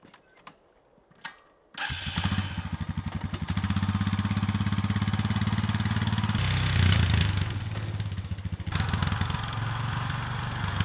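A couple of faint clicks, then an engine starts about two seconds in and keeps running with a fast, even beat, getting deeper and louder about six seconds in and changing again a couple of seconds later.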